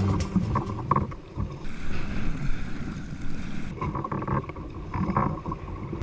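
Wind gusting over the microphone, with water sloshing and splashing around a kayak and a few brief louder splashes.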